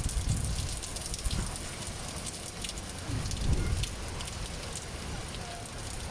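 Heavy rain falling, a steady hiss full of small drop ticks, with gusts of wind rumbling on the microphone now and then.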